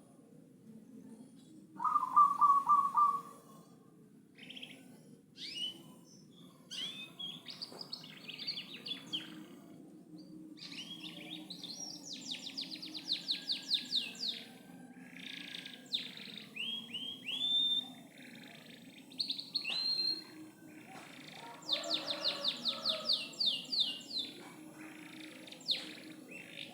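Canary singing a long, varied song of whistled notes and fast rattling trills. The loudest part is a low, rolling trill about two seconds in.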